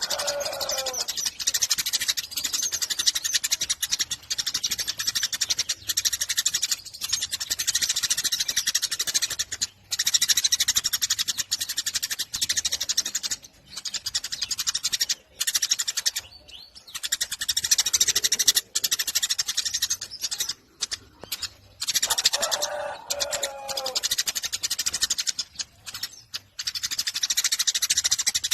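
Eurasian tree sparrow chirping rapidly and almost without pause in a dense, high-pitched chatter, the frantic nonstop 'konslet' style of singing, with a few brief breaks. Twice, near the start and about 22 seconds in, a lower falling call sounds over it.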